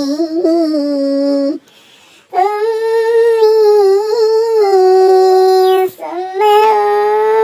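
A high-pitched voice singing a sholawat chant in long, drawn-out held notes. The pitch steps up after a short break about two seconds in.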